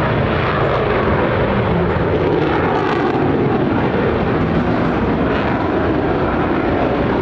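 US Air Force F-16 Fighting Falcon jet fighter flying, its single jet engine loud and steady throughout.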